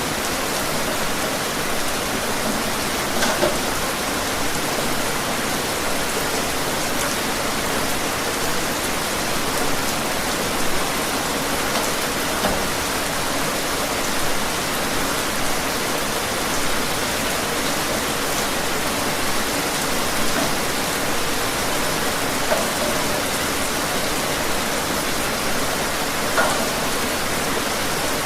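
Steady rain falling, an even hiss with louder individual drops landing every second or two.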